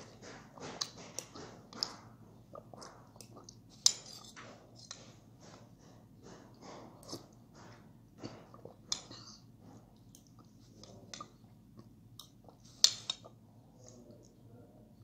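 Close-miked chewing and mouth sounds of a person eating, a rapid run of short wet bites and smacks. Two sharp clicks stand out, about four seconds in and again near the end.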